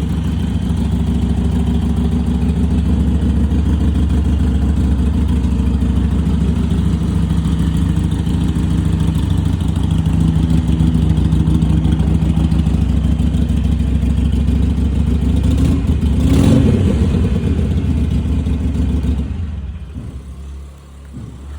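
Harley-Davidson Iron 883's air-cooled 883cc V-twin running steadily through a loud aftermarket exhaust, with one short throttle blip about sixteen seconds in. The sound dies away near the end.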